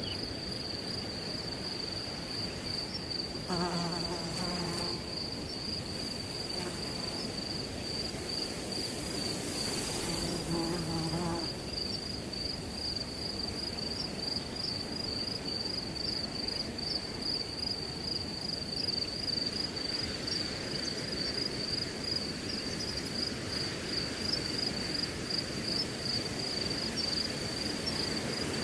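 Crickets chirping in a steady, high, pulsing trill over the rushing of wind through grass. Two brief low buzzes come through, about four and ten seconds in.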